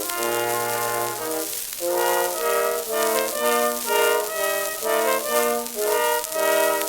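Instrumental music from an early shellac phonograph record of 1900–1925, a brass-led ensemble playing a melody of short held notes, with the disc's steady surface hiss underneath.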